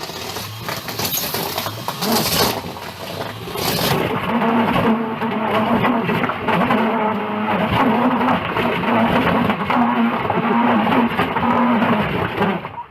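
Car with a loud aftermarket exhaust: a noisy rush for the first few seconds, then the engine held at high revs as a steady, slightly wavering drone until it cuts off abruptly.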